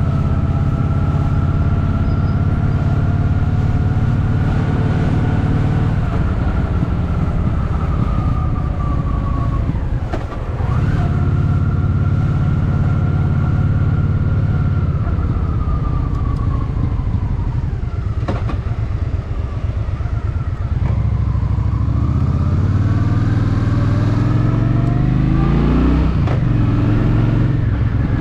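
Honda Shadow VT750's V-twin engine running under way, heard from the rider's seat. The engine note holds steady, falls off twice as the throttle is eased, then climbs in several rising pulls through the gears near the end.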